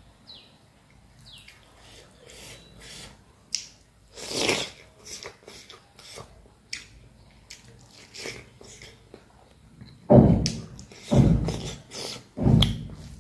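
Close-miked eating sounds of rice and pork being eaten by hand: chewing with many small wet mouth clicks. There are several louder, deeper bursts in the last three seconds.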